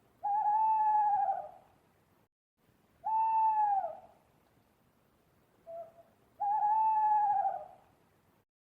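An animal calling three times, each call a single long pitched note lasting over a second. The second call falls in pitch. A short, fainter note comes just before the first and the third call.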